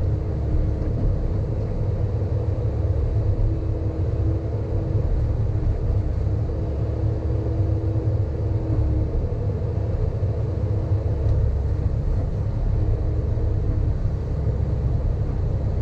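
Sany hydraulic excavator's diesel engine running steadily under work, a constant low rumble with a faint steady hum that comes and goes.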